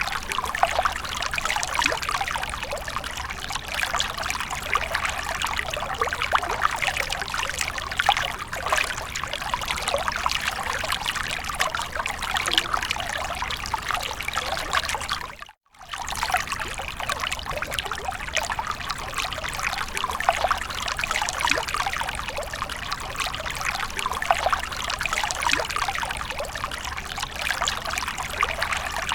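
Fountain water splashing and trickling steadily. About halfway through it cuts out for a fraction of a second, then resumes.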